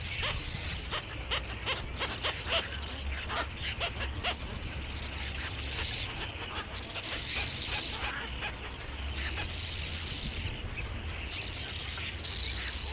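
Many small birds chirping and twittering together, short calls overlapping with no pause, over a steady low rumble.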